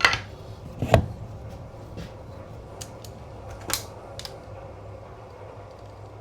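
A board and hand tools being handled on a workbench: a few sharp knocks and clicks, the loudest about a second in, over a steady low hum.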